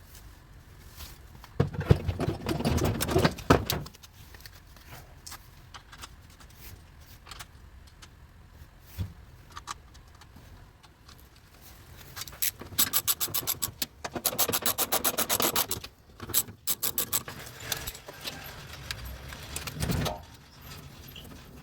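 Metal washing-machine parts being greased and fitted back together by hand, with bursts of clinking, scraping and rattling. A louder stretch of rapid rattling comes about two-thirds of the way through, and a single thump comes near the end.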